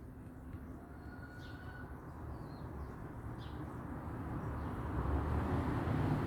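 A low rushing rumble grows steadily louder, with a few faint short bird chirps above it.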